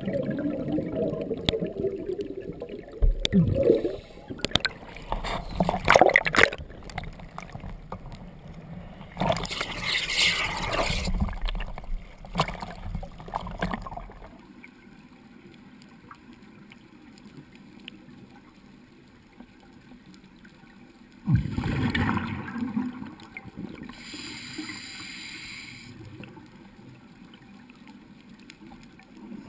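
Underwater gurgling of a scuba diver's exhaled bubbles, coming in irregular bursts of a few seconds over a steady background hiss.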